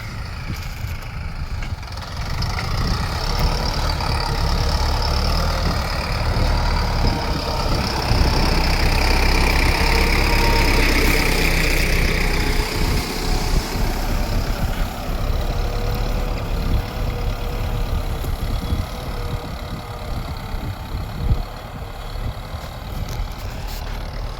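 Sonalika Tiger DI 65 CRDi tractor's common-rail diesel engine running steadily while pulling a cultivator through the soil, growing louder toward the middle and easing off again in the second half.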